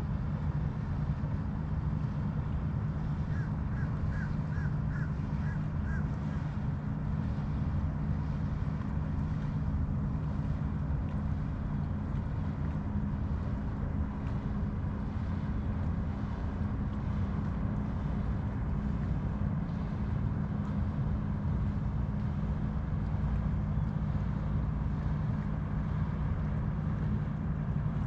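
Steady low drone of a boat engine running. A bird gives a quick series of about six short calls a few seconds in.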